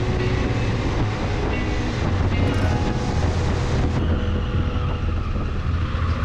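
Motorcycle engine running steadily while riding, with a low rumble and wind noise on the microphone.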